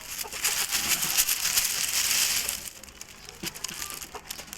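Rustling, crinkling handling noise, dense and crackly, lasting about two and a half seconds and then giving way to a few scattered light clicks.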